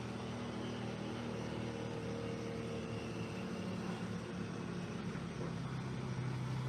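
An engine running steadily, a low drone with a few held tones that grows slightly stronger near the end.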